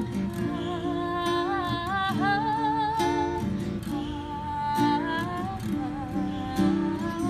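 Acoustic guitar strumming chords, with a voice singing long held notes that waver and glide in pitch over it.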